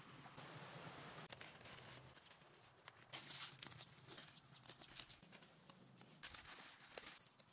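Near silence: faint outdoor background with a few soft clicks and rustles.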